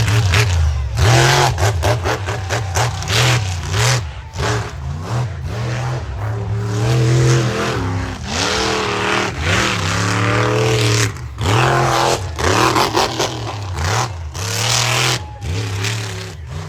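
Monster truck engine revving hard over and over, its pitch climbing and falling as the throttle is opened and cut, with several brief drops in between.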